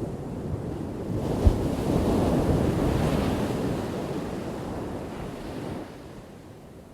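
Ocean wave crashing on the shore: the surf builds about a second in with a brief low thump as it breaks, then washes out and falls away sharply near the end.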